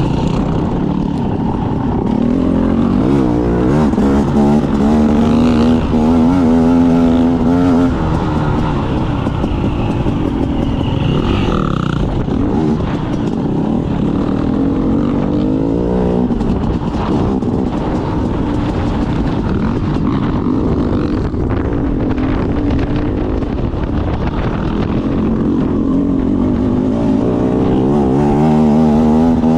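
Off-road motorcycle engine revving hard and easing off again and again as the bike rides round a motocross track. The pitch climbs and is held high around a quarter of the way in, then falls and rises several times, climbing again near the end.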